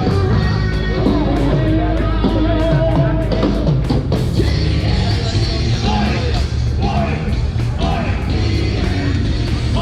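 A rock band playing live: a steady drum beat, bass guitar and a singing voice.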